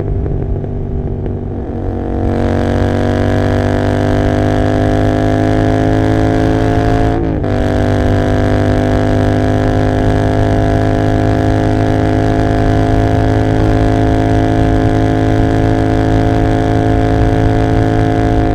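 Royal Enfield Continental GT 650's parallel-twin engine, unbaffled through an Emgo cafe muffler with no dB killer, pulling under throttle with its pitch climbing slowly. There is a quick gear change about seven seconds in, then it pulls on again.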